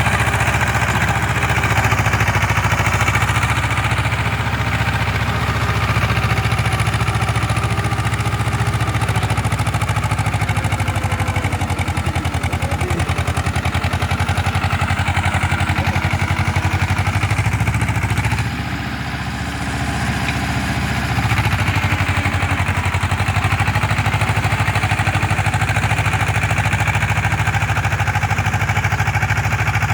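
Tractor diesel engine running steadily while working a rotavator through a flooded paddy field (puddling heavy mud). The engine eases off briefly about two-thirds of the way through, then picks back up.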